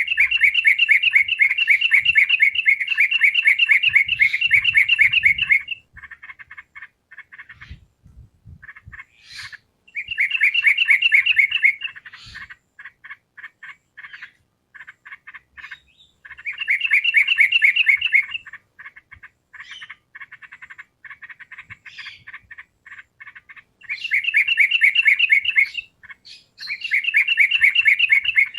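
Yellow-vented bulbul (trucukan) singing: five bouts of rapid, bright chattering notes, the first about six seconds long and the later ones about two seconds, with fainter quick ticking notes in the gaps.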